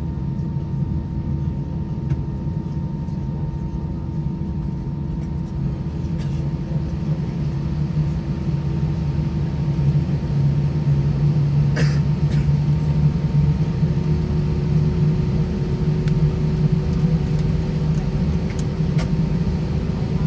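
Airbus A320-200 cabin noise from a seat near the wing, its IAE V2533 engines running steadily at low power with a deep hum and a few steady tones. The hum grows a little louder about halfway through, and a short click sounds near the middle.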